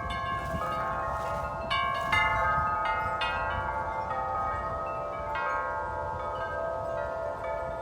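Backyard wind chimes ringing in strong gusty wind, tubes struck again and again so that several tones ring and overlap, with fresh strikes about two seconds in and again later. Wind rumbles on the microphone underneath.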